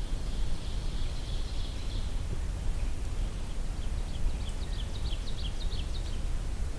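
White-breasted nuthatch song: a quick run of about a dozen short, high, down-slurred notes, about four seconds in, lasting roughly two seconds, over a steady low outdoor rumble.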